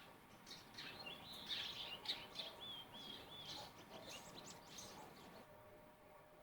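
Eurasian tree sparrows chirping: a quick run of short, repeated chirps that dies away about two-thirds of the way through.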